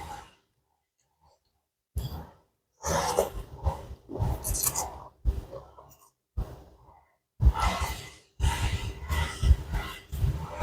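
A person eating close to the microphone: chewing and breathing in short, irregular bursts with brief gaps of silence.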